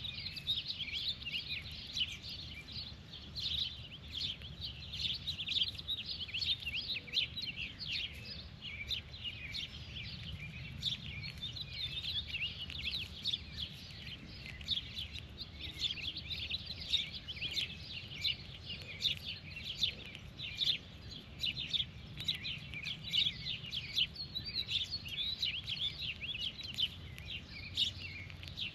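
Many birds chirping at once in a dense, continuous chatter of short calls, over a low steady rumble.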